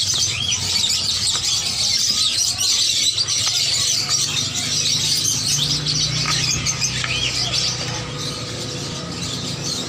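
Many caged songbirds chirping and twittering at once in a dense, continuous chorus, with a low steady hum joining partway through.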